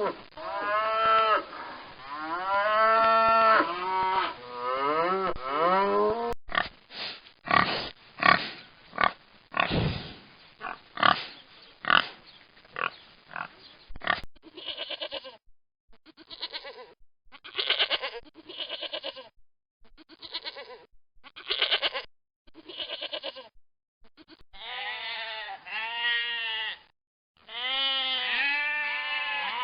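Several animal calls one after another: drawn-out calls that rise and fall in pitch, then a long run of short grunting pulses, then arching pitched calls again near the end.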